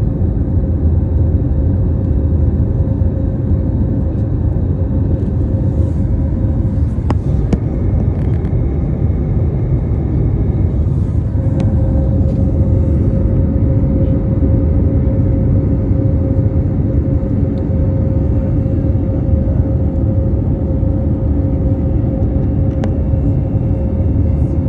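Steady low rumble of an airliner cabin with the engines running, carrying a constant hum tone and a few faint clicks.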